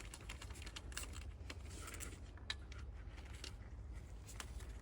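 Faint, irregular metallic clicks and taps of hand tools undoing small nuts in an engine bay, over a low steady hum.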